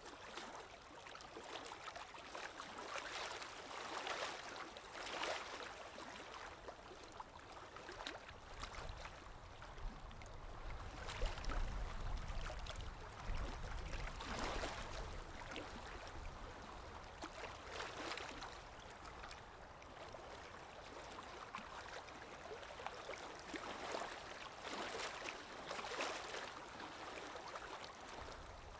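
Forest stream running, gurgling and splashing in uneven swells, with a low rumble for several seconds in the middle.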